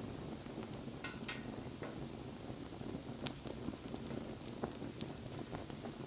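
Wood fire crackling: scattered sharp pops and snaps over a steady low rustle of burning, the loudest pop about three seconds in.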